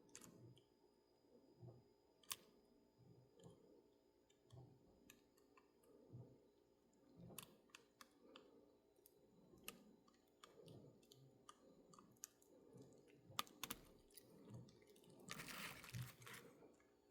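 Near silence with faint scattered clicks and taps of small model-locomotive parts and tools being handled, and a brief rustle near the end.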